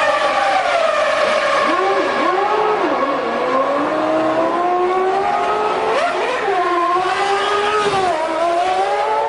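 Formula 1 V10 racing engine running at high revs, its pitch rising and falling several times as the throttle and gears change, with one sharp jump in pitch partway through.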